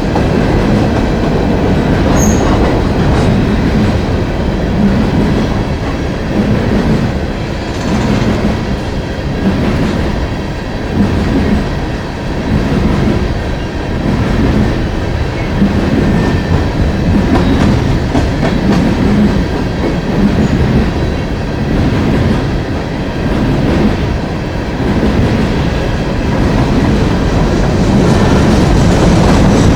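Long coal train's cars rolling past close by, wheels clattering rhythmically over the rail joints under a steady heavy rumble.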